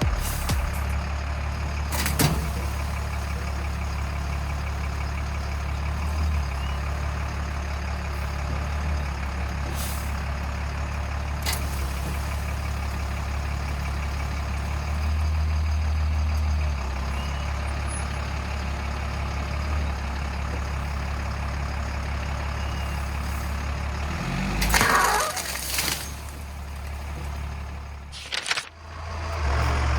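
FMTV military truck's diesel engine running steadily, with a few sharp clicks and a brief loud burst of noise near the end.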